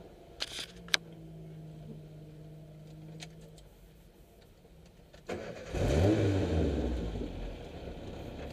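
Car engine idling with a steady low hum, two sharp clicks about half a second in. About five seconds in an engine revs up loudly, then eases back over the next couple of seconds, heard from inside the car's cabin.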